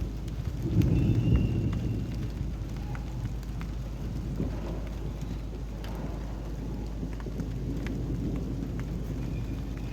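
Steady rain falling, with scattered drops pattering, and a low roll of thunder that swells about a second in and then fades back into the rain.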